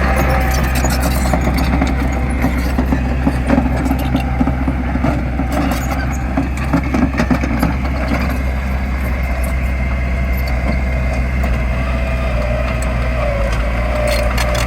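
Heavy diesel engine of construction machinery running steadily, with scattered knocks.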